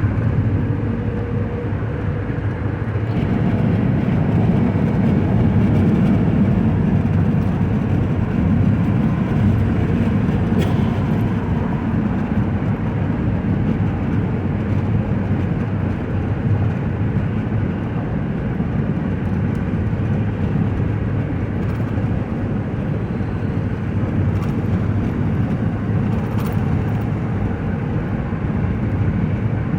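Steady low rumble of a vehicle's engine and tyre road noise heard from inside the cab while driving on a wet highway, rising a little about three seconds in.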